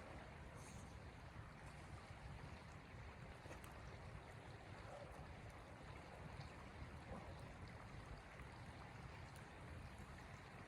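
Faint steady rush of storm wind with a low rumble and a few light ticks.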